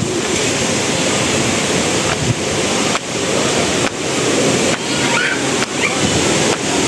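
Steady rushing of wind and surf outdoors by the sea, with wind buffeting the phone's microphone.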